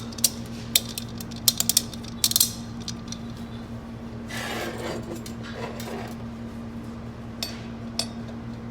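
Sharp metal clicks and clinks, several in the first couple of seconds and a few more later, of a steel snap ring being handled and fitted into its groove in an automatic-transmission clutch basket, with softer scraping between. A steady low hum runs underneath.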